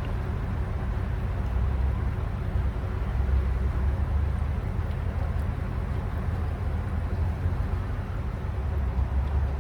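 Vehicle engine running steadily at idle, a low, even rumble.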